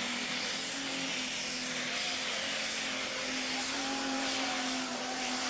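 Pulling tractor's engine running flat out during a pull: a steady, dense mechanical noise with a held droning tone that wavers slightly in pitch.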